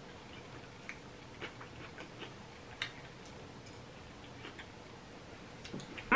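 Close-miked chewing: soft, scattered wet mouth clicks and smacks, a few of them sharper ticks, the clearest about three seconds in.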